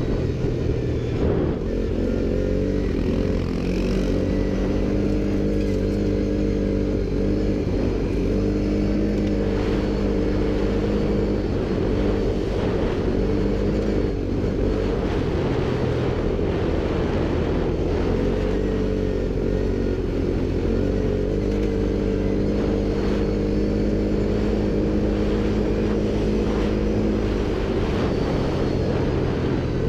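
ATV engine running under way, a steady drone whose pitch rises and falls a few times as the throttle changes.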